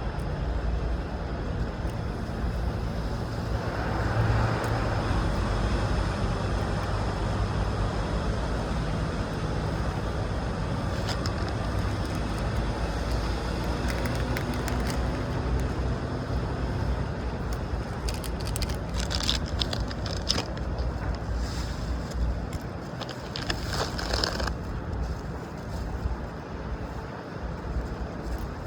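Steady vehicle engine and traffic rumble. Scattered short clicks come between about 18 and 25 seconds in.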